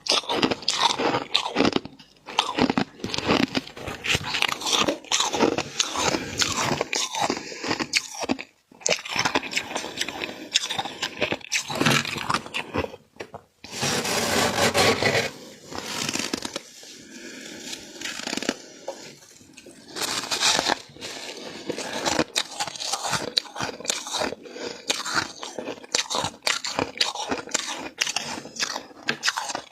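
Close-miked crunching of flaky frost being bitten and chewed, a dense run of irregular crackles, with a smoother, steadier stretch about halfway through.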